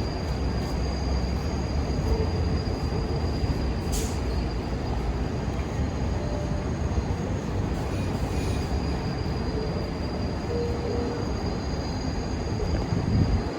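New York City subway train running on steel rails, a steady rumble with a few faint, brief wheel squeals and a sharp click about four seconds in.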